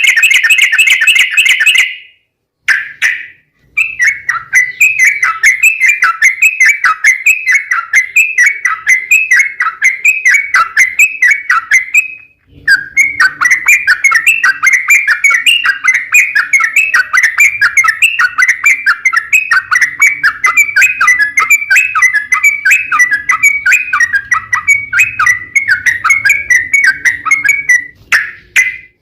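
Yellow-vented bulbul (cucak trucuk) in full song: a long, fast run of repeated chattering whistled notes, with short breaks about two and twelve seconds in.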